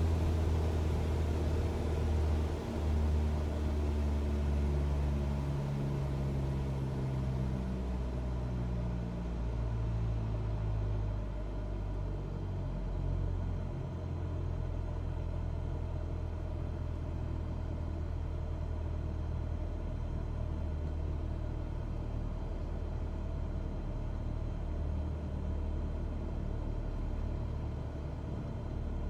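Cessna 172's engine and propeller droning inside the cabin. Over the first ten seconds or so the engine note steps down in pitch and the loudness eases off, as when power is reduced. After that the drone runs steadily at the lower setting, with less hiss on top.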